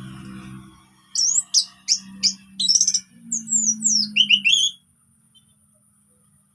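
Orange-headed thrush singing a rapid burst of varied whistles, sweeps and chattering notes for about three and a half seconds. The burst starts about a second in and ends with three quick descending notes.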